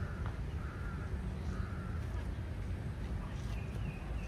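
A bird calling in three short notes within the first two seconds, over a steady low background rumble.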